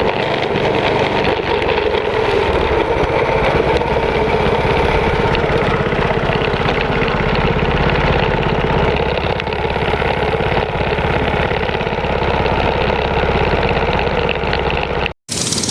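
Small mini bike engine running steadily at racing speed, a constant mechanical drone. It cuts off abruptly near the end, then engine sound resumes.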